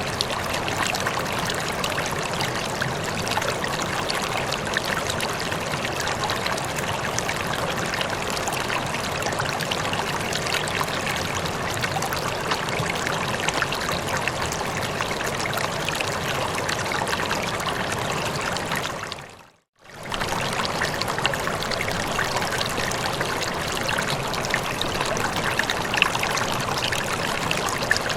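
Running water, a steady splashing and trickling like a stream or small cascade. About two-thirds of the way through it fades briefly to silence and comes straight back.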